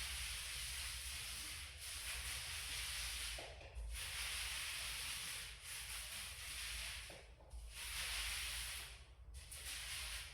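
Paint being spread on a wall in long strokes: a rasping hiss about six times, each stroke lasting a second and a half to two seconds, with short breaks between.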